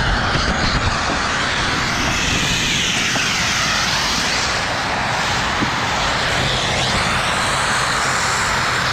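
Steady loud rush of wind noise on the microphone while riding on the snow.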